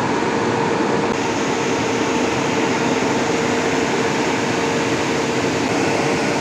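WAP-7 electric locomotive standing at the platform, its cooling blowers running with a steady hum and a constant faint tone.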